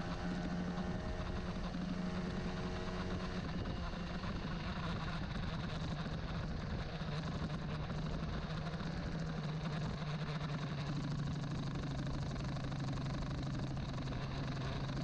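Honda CBR150R single-cylinder four-stroke engine running steadily, its pitch dropping slightly over the stretch. A few higher steady tones are heard during the first few seconds.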